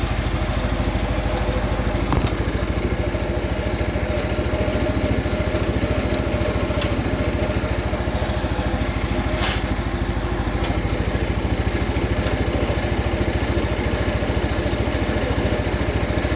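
The 10 hp Kohler single-cylinder engine of an old Case yard tractor running steadily at a constant speed, with a couple of sharp clicks.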